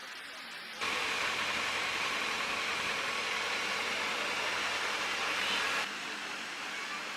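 Porsche 911 GT3 on the move: a steady rushing noise of road, wind and engine. It jumps louder about a second in and drops back abruptly near six seconds, as the footage cuts.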